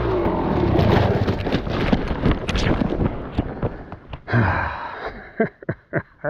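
A train passing close: a horn blast trails off at the start, then the rumble and rapid clatter of the cars slowly fade, leaving scattered clicks near the end.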